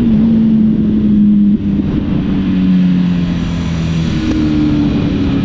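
Car engine running under way, a steady drone over road rumble whose pitch drops in steps about one and a half seconds and four seconds in, then rises again.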